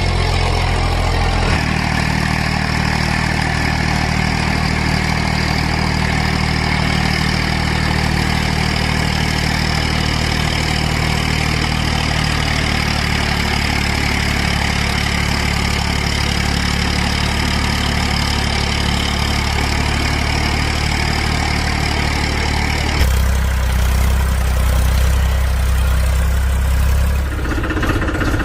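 Tractor engine running steadily at a low idle-like speed, with the sound changing abruptly about a second and a half in, again near the end, and once more just before it ends.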